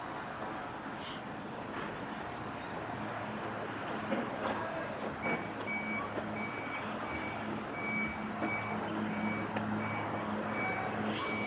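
A vehicle's reversing alarm beeping steadily about twice a second, starting about five seconds in, over the low hum of an engine.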